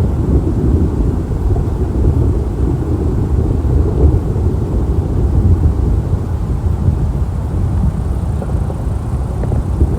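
Thunder, a deep low rumble that carries on unbroken through the whole stretch.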